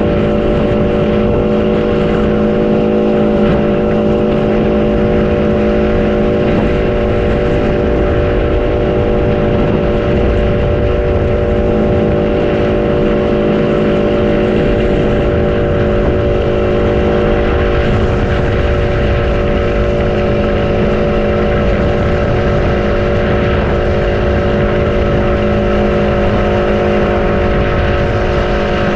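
A motor running steadily at an unchanging speed, with wind rumbling on the microphone.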